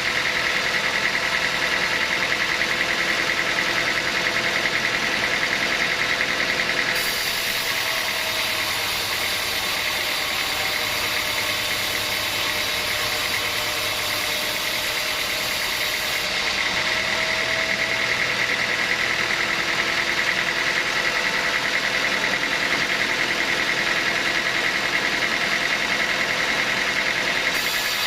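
Sawmill machinery running steadily: a continuous mechanical drone with a high whine, its tone changing at about 7 and 16 seconds in, with slight shifts in pitch.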